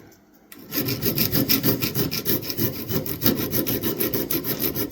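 Small diamond-tipped file scraping on the steel of a vintage Imperial pocket knife blade in quick, even strokes, starting about half a second in; metal is being taken off the blade's high point so the tip sits lower in the handle.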